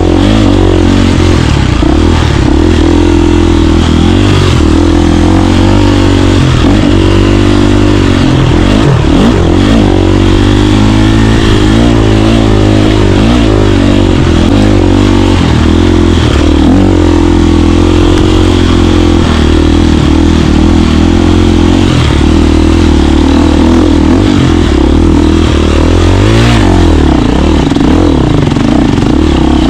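KTM 350 four-stroke single-cylinder dirt bike engine running loudly under riding, its revs rising and falling throughout.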